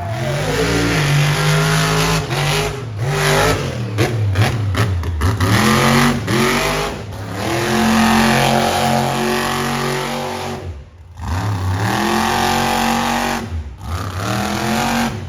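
Monster truck engine revving hard, its pitch rising and falling over and over with the throttle. Near the end it cuts off sharply for a moment and then revs back up.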